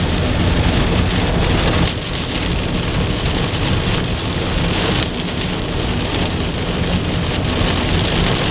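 Heavy rain pelting a car's roof and windshield, heard from inside the moving car: a dense, steady patter of drops over a low road rumble.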